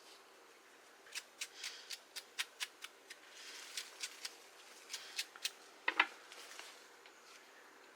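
A knife scraping the skin and dirt off a wild matsutake mushroom in quick short strokes, about two or three a second, with a sharper scrape about six seconds in.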